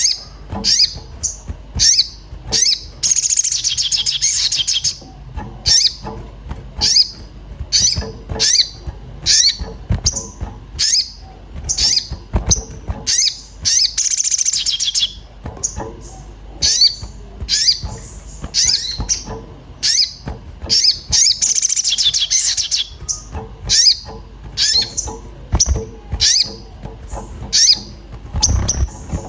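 Crimson sunbird (kolibri sogon) in an agitated state giving sharp, high 'cuit cuit' chirps about once or twice a second, broken three times by a couple of seconds of rapid trilling.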